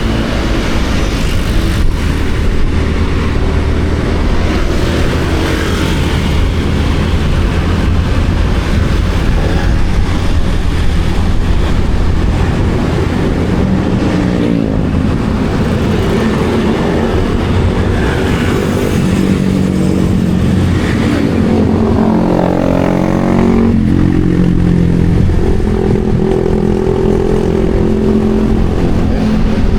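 Motorcycle engine running under way, heard from the riding bike with steady road and wind rush. The engine note drops and climbs back twice, around the middle and about three quarters through, as the throttle eases and opens again.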